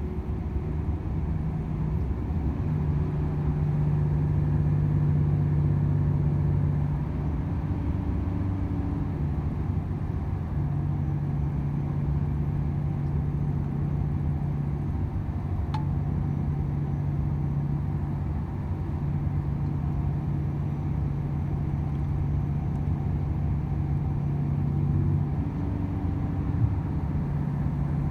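Volvo FH 500 truck's 13-litre six-cylinder diesel running steadily on the road, a low even drone with road rumble underneath.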